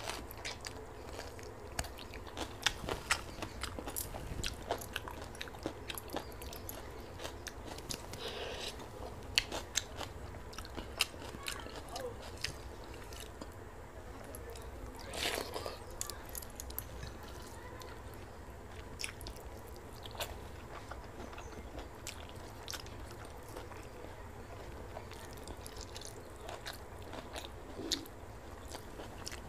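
A person eating close to the microphone: steady chewing and biting with many small, irregular crunches and mouth clicks, from fermented water rice (pakhala) eaten by hand with crunchy raw onion, chilli and fried okra.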